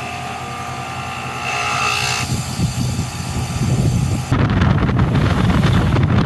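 Outdoor unit of a 2006 Carrier heat pump running: a steady low hum with a thin motor whine over it. About four seconds in the whine drops out and a louder, rougher rumble takes over, with wind buffeting the microphone.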